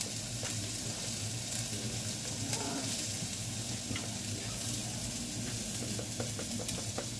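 Sliced red onion and tomato wedges sizzling in oil in a skillet as they sweat: a steady hiss, with a few small crackles near the end.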